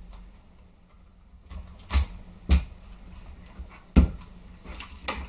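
Sharp clicks and knocks of an SRC G36 airsoft rifle's parts being handled as a takedown pin goes back in and the hop-up is tried: four separate clicks, the loudest about four seconds in.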